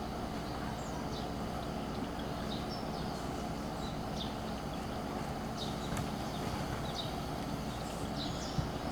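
Small birds chirping in short, scattered calls over a steady low background rumble, with one sharp click about six seconds in.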